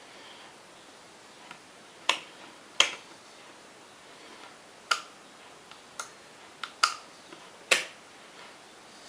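About eight sharp clicks and knocks at irregular intervals, the loudest two about three and eight seconds in, with no motor running.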